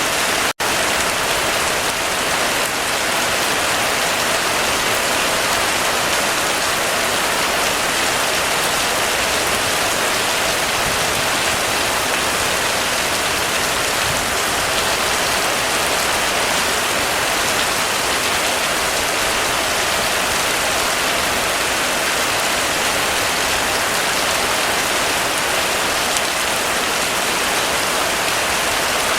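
Heavy rain falling steadily, an even wash of rain noise, with a momentary dropout about half a second in.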